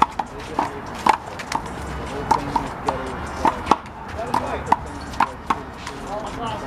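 Handball rally: sharp smacks of the ball against players' hands and the wall, coming irregularly a few times a second.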